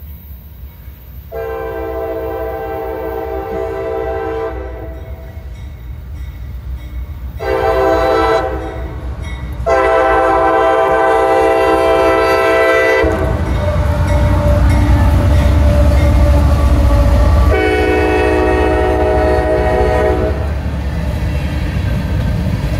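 CSX freight train's horn sounding a series of blasts for a grade crossing: a long blast, a short one, a long one, then more blasts later. The diesel locomotives pass close by with a heavy low rumble that starts abruptly about halfway through and carries on as the hopper cars roll past.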